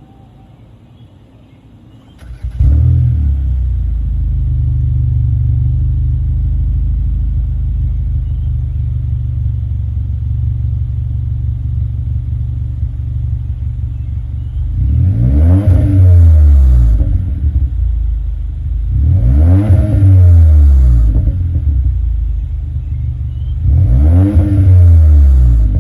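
2021 Kia K5 with a custom Borla exhaust: the engine starts about two seconds in and settles into a deep, steady idle. Near the end it is revved three times, each rev rising and then falling in pitch.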